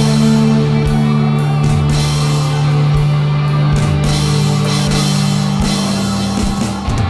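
Instrumental progressive rock: heavy, sustained low guitar or bass notes over a steady rock drum beat, with no vocals.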